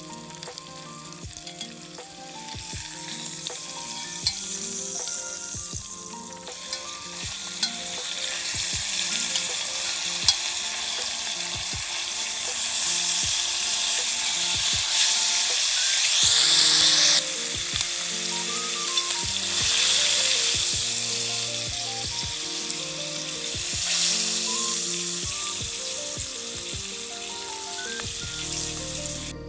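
Food frying in a hot pan over a wood fire: a steady sizzle that builds up, swells loudest a little past halfway and then drops suddenly, with quieter swells later. Soft background music runs underneath.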